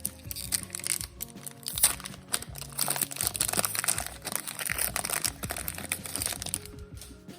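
Foil booster-pack wrapper crinkling as it is opened, the crackling stopping about a second before the end, over background music.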